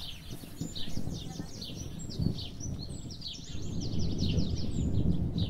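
Small birds chirping in quick series of short, falling chirps, over a low rumble that grows louder about halfway through.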